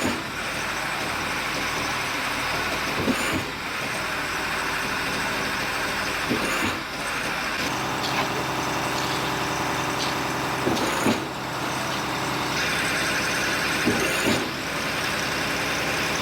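Concrete pump's diesel engine running steadily under load, with a short recurring surge from the pumping stroke about every three to four seconds.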